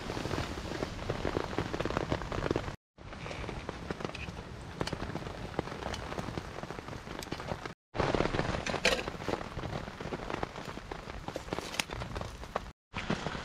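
Rain pattering on a tarp overhead, mixed with a wood campfire crackling and popping. The sound drops out briefly three times.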